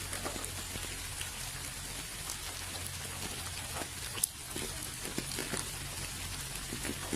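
Steady rain falling, with separate drops ticking on a hard surface and one sharper drop hit about four seconds in.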